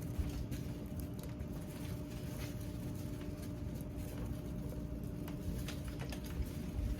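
Wood fire crackling, with scattered sharp pops and clicks over a low rumble and a steady hum.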